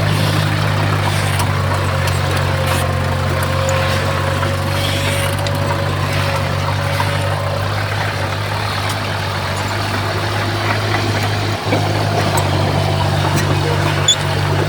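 Heavy diesel engine of earthmoving equipment running steadily at low speed, a constant low hum.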